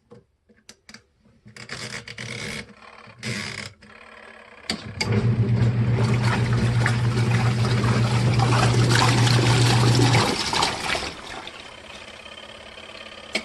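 Clicks and short handling noises, then a portable twin-tub washing machine's wash motor starts about five seconds in: a steady hum with water sloshing around the tub. The hum stops about ten seconds in while the water keeps swirling, then starts again at the very end, as the agitator pauses and reverses.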